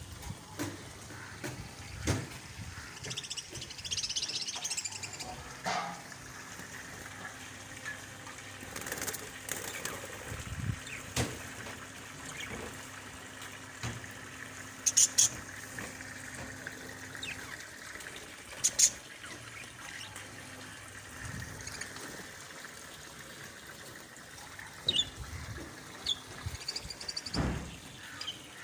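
Birds chirping on and off over a steady outdoor background, with a few sharp clicks in between.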